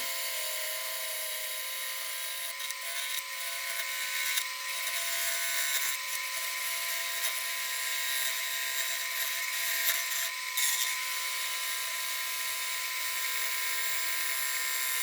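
Wood lathe running at about 800 rpm with a steady motor whine, a bowl gouge cutting a red oak blank that is still out of round, with irregular scraping as the tool meets the uneven wood.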